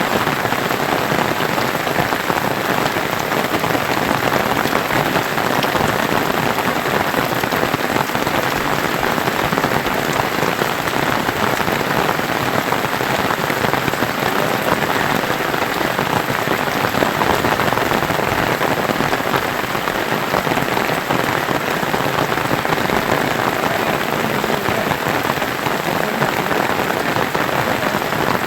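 Steady heavy rain falling, a dense, even patter that holds at the same loudness throughout.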